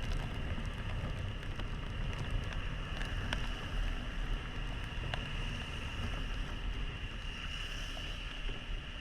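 Small single-cylinder motorcycle running steadily on the move, with wind rushing over the helmet-mounted camera. Scattered sharp ticks, likely raindrops striking the camera or helmet, come through the rumble.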